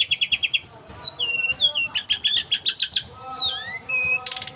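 Tledekan gunung songbird singing a fast, varied song of rapid trills and whistled notes gliding up and down, with a short harsh buzz near the end.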